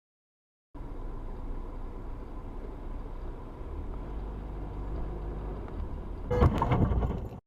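Steady low road and engine rumble of a moving car, then about six seconds in a car collision: a burst of loud bangs and knocks for about a second that cuts off suddenly.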